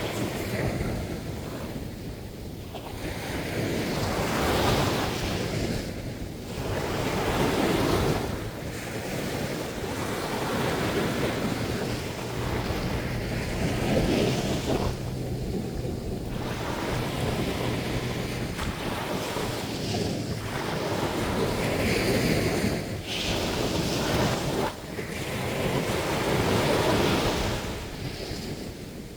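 Sea surf breaking on a beach, waves rolling in and washing out in swells every few seconds.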